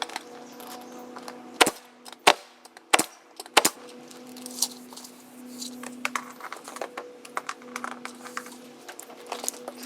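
Pneumatic air stapler firing into wood while roof stringers are fastened: four loud sharp shots in quick succession from about a second and a half in, with lighter clicks and knocks around them.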